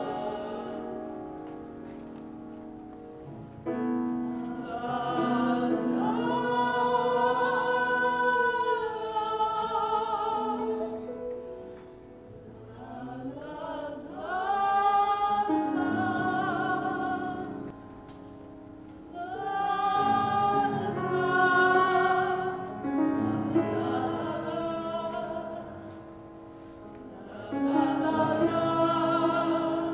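Music with singing in a classical, operatic style: long held notes with vibrato over sustained accompanying chords, in phrases separated by brief quieter passages.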